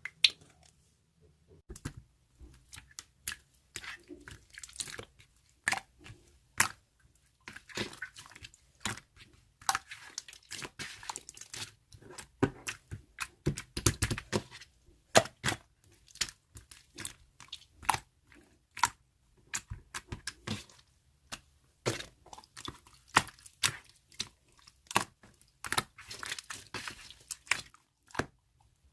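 Yellow slime being pressed and squished by hand, making irregular sharp pops and crackles that begin about two seconds in.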